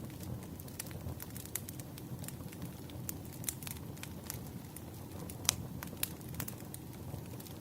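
Firewood burning in a campfire: a steady low rumble of flames with irregular sharp crackles and pops, the loudest pop about five and a half seconds in.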